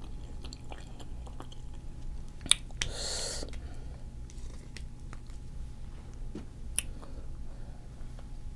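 Close-miked chewing and wet mouth sounds of someone eating seafood boil food, with small scattered clicks. Two sharp clicks and a short rustle about three seconds in stand out.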